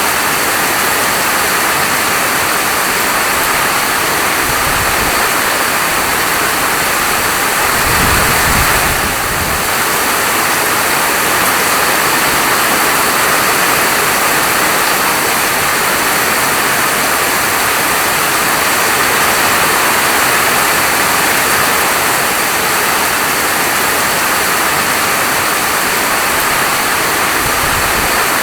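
Steady heavy rain falling, a dense even hiss. A brief low rumble about eight seconds in.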